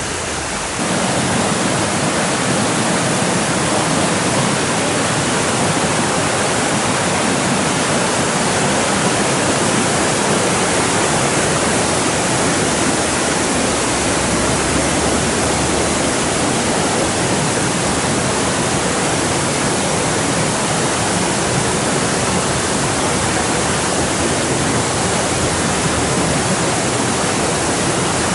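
Steady rush of fast-flowing water from a mountain stream and its falls, a continuous even roar that gets louder about a second in.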